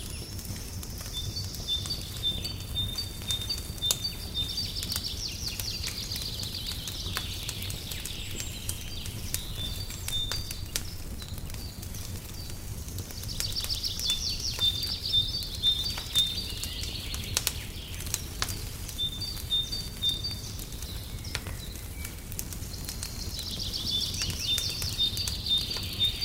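Fireplace crackling, with scattered sharp pops over a low steady rumble. A songbird sings a high phrase of quick repeated notes three times, about every ten seconds.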